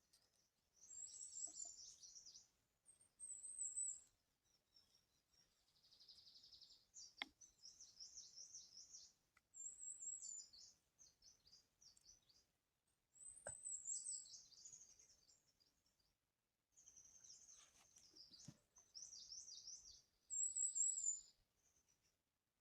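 A small songbird chirping in short, high, twittering bursts every few seconds, with a few faint sharp clicks among them.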